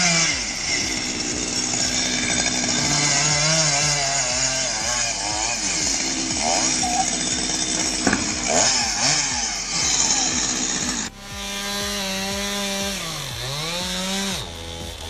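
Two-stroke chainsaw running and being revved, its pitch rising and falling repeatedly, with a sharp crack about eight seconds in. About eleven seconds in the sound cuts abruptly to a different steady pitched drone that dips briefly in pitch.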